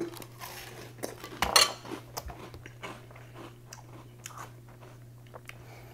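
A mouthful of crunchy oatmeal creme pie cereal being chewed, with crisp crunches that are strongest about a second and a half in and then become smaller and sparser.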